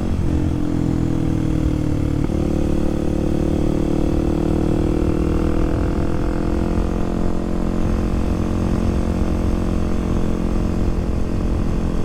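Kawasaki KLX300SM's single-cylinder four-stroke engine running under way at a steady cruise, with a brief change in its note about two seconds in.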